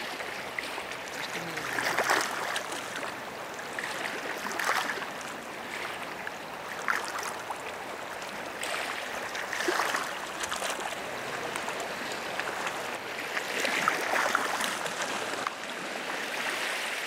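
Small waves lapping and washing at the shore, swelling softly every two to three seconds.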